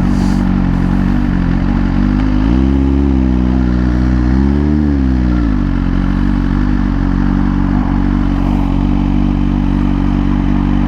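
Suzuki GSX-R1000R inline-four engine running while the bike is ridden, with a steady rush of wind noise. Near the middle the engine note rises and falls twice, then settles back to a steady tone.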